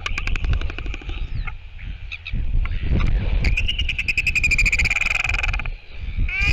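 Royal albatrosses at a display gathering: a fast rattle of bill clapping, then a long pulsed call from about three and a half seconds in, over a steady low wind rumble on the microphone.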